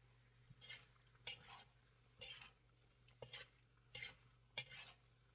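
Spatula scraping and stirring chicken strips and bell peppers in a wok, in faint short strokes about once a second.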